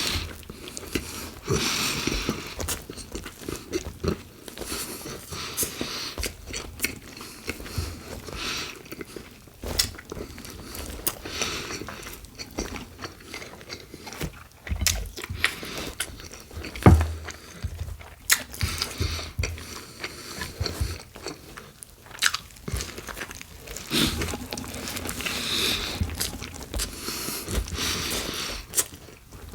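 Close-miked biting and chewing of a BLT sandwich on Italian bread with bacon and iceberg lettuce: irregular crunching and mouth noises. One sharp, louder thump comes a little past halfway.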